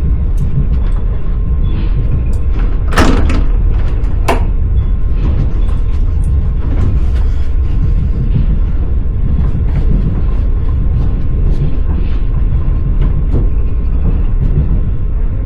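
Steady rumble of a moving passenger train heard from inside the carriage, with the clatter of the wheels on the rails. Two sharp clanks come about three and four seconds in.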